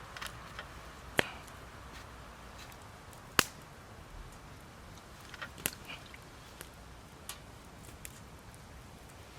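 Wood fire crackling: scattered sharp pops, two louder ones about one and three seconds in, with fainter ticks after.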